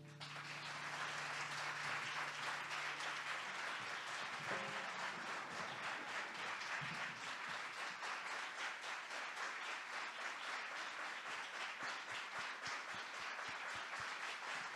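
Audience applause, steady and even throughout, with a low note from the music ringing out underneath for the first few seconds.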